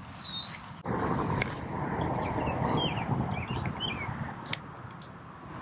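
Birds chirping and calling in short high notes, with a brief, loud whistled call right at the start, over a low steady rush of outdoor noise.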